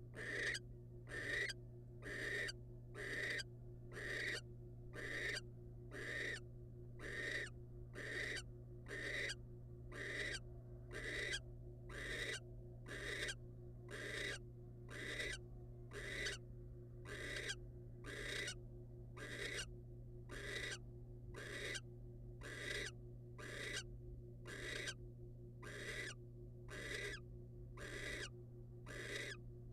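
Barn owl hissing calls, the raspy 'snoring' of a begging owl, repeated evenly about once a second, over a steady low electrical hum.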